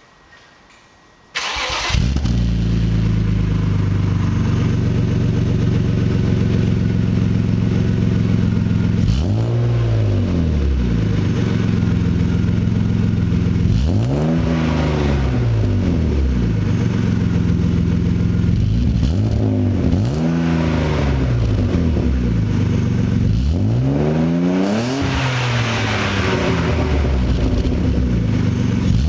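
BMW M52B28 2.8-litre straight-six breathing through a Scorpion stainless-steel twin rear silencer. It starts abruptly about a second and a half in and settles into a steady idle. It is then blipped several times, each rev climbing and falling back to idle within a second or two.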